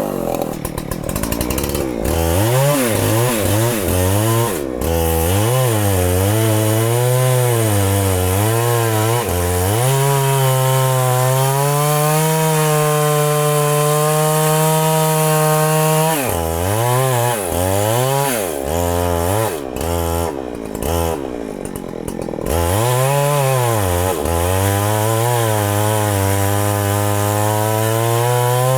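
Two-stroke chainsaw cutting under heavy load into a very thick tree trunk. Its engine pitch rises and falls again and again as the chain bites. It holds steady at full throttle for several seconds midway, sags and falters lower for a few seconds, then climbs again.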